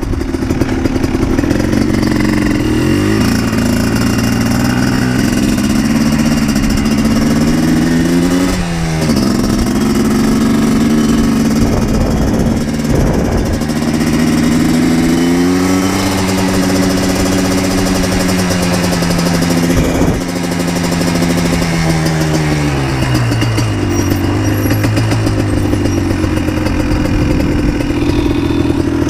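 Yamaha Blaster 200's two-stroke single-cylinder engine running while the quad is ridden, revs rising and falling through the ride. There is a sharp drop and pick-up in revs about nine seconds in and a long fall in revs about three quarters of the way through.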